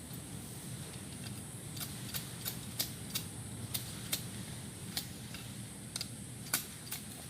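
Digging a small hole in forest soil with a hand tool: a series of about a dozen irregular sharp clicks and scrapes as the tool strikes and works the earth, the loudest near the end.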